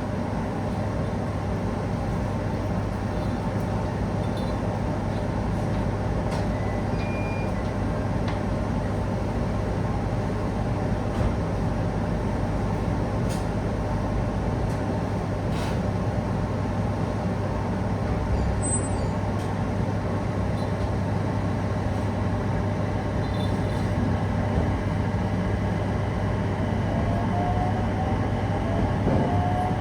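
Steady hum and running noise heard inside a local electric train car, with a few faint clicks. Near the end a rising motor whine comes in.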